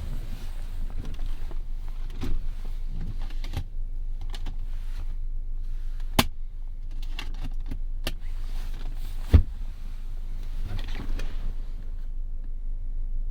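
Inside a car's cabin: a steady low hum with a few sharp clicks and short whirring or swishing sounds, the loudest click about nine seconds in.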